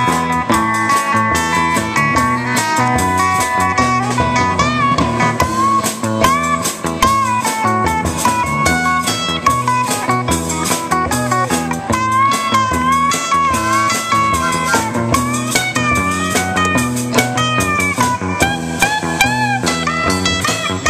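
Instrumental break of a country-rock song: an electric guitar plays a lead line full of bent notes over the band.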